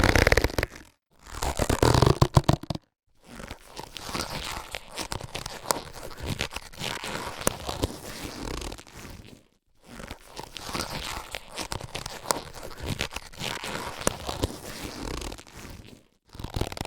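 Latex surgical gloves being handled: two short, louder bursts of rubbing in the first few seconds, then two longer spells of crinkly rubbing and rustling full of tiny clicks, each broken off by a brief pause.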